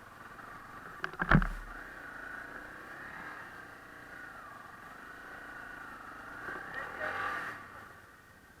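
Dirt bike engine running, its pitch wavering up and down and rising around the last couple of seconds, with a sharp knock about a second in.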